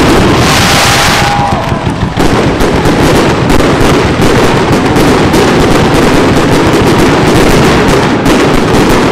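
Fireworks going off at close range: a hissing rush of fountain effects in the first two seconds, then a dense, continuous barrage of rapid bangs and crackling.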